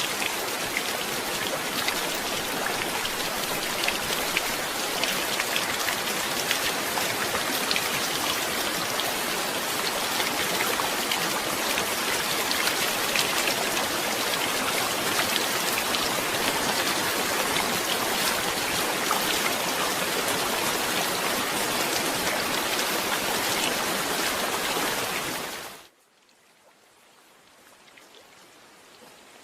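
Steady heavy rain: a dense hiss of falling rain with many small drop ticks. About 26 seconds in it cuts off abruptly, then comes back faintly and slowly grows louder.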